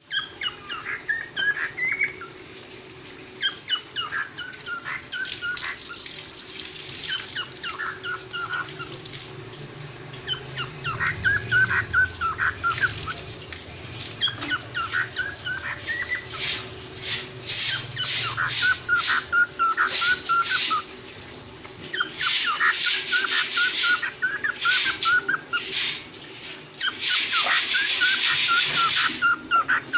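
Cockatiels calling: a run of short whistled chirps, joined in the second half by stretches of harsh screeching calls, loudest near the end.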